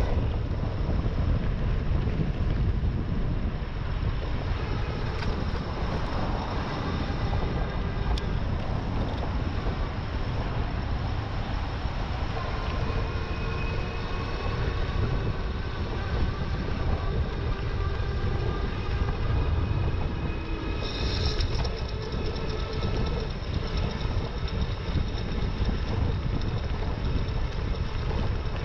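Wind buffeting an action camera's microphone while riding an e-bike, with steady road and tyre noise underneath and faint whining tones that drift up and down.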